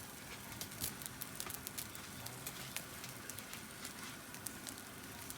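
Food grilling on a camp grill: irregular crackling and popping over a steady hiss.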